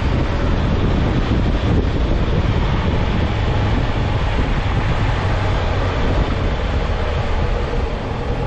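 Honda CB650F inline-four motorcycle being ridden at speed, its engine running under a heavy rush of wind on the microphone. The level eases slightly near the end.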